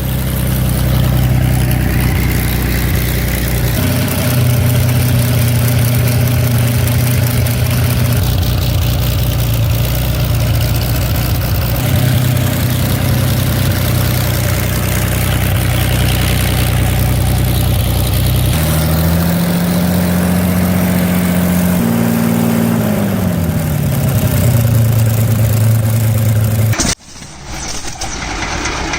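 Allison V-1710 V12 aircraft engine running with a steady low note, its speed shifting a few times. About twenty seconds in it runs higher, then the revs fall away. Near the end it cuts off suddenly and a different engine sound begins.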